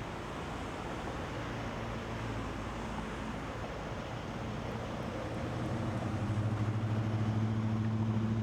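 Road traffic: a steady rush of noise with a low vehicle engine hum that grows louder from a little past halfway.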